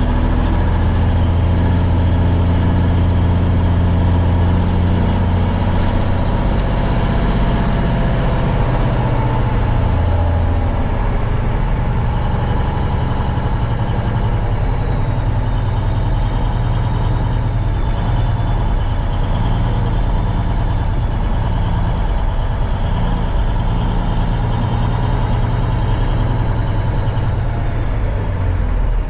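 1971 Peterbilt 359 semi truck's diesel engine running steadily under way. The engine note shifts about ten seconds in, and a faint high whine slowly falls in pitch.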